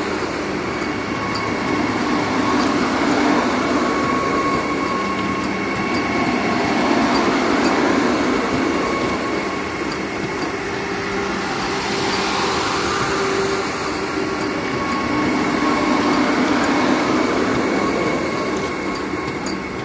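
Vande Bharat Express electric trainset running past close by: a steady rumble of wheels on rail with a faint whine, swelling and easing every few seconds as the coaches go by.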